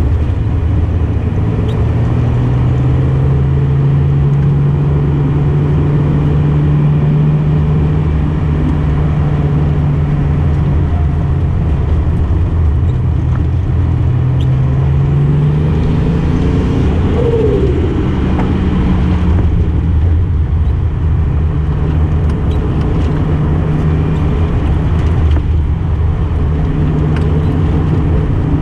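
Datsun 240Z engine running as the car drives a winding road, with wind and tyre noise. The engine note climbs about halfway through, rises sharply for a moment, then drops back and settles steady again.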